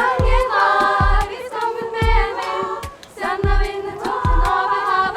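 A choir singing a cappella, several voices holding chords in harmony, with low thumps about once a second underneath.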